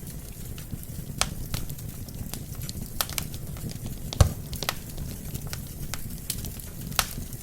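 Wood fire crackling in a fireplace: irregular sharp pops and snaps over a steady low hiss of flames, with the loudest pop about four seconds in.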